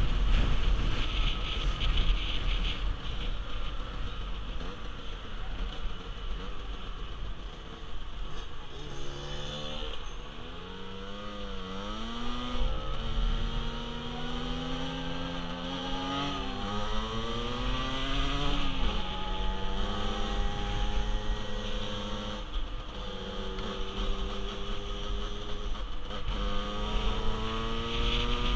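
50cc motorcycle engine under way, heard through heavy wind rush on the microphone. From about a third of the way in, the engine note climbs again and again, dropping back sharply four times as the rider shifts up.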